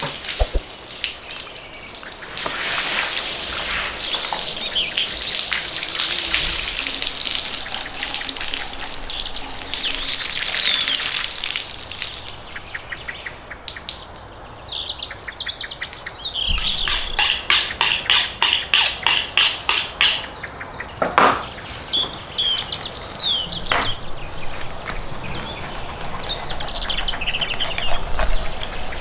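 Small songbirds chirping and singing. For the first part there is a steady hiss like running water, and in the middle a quick series of sharp strokes, about three a second.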